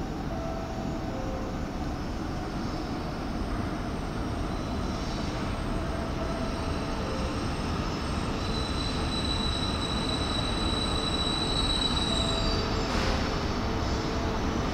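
E4 series double-decker Shinkansen rolling slowly into a station platform, its running noise growing louder as it nears. A thin, high squeal comes in over the second half as it brakes.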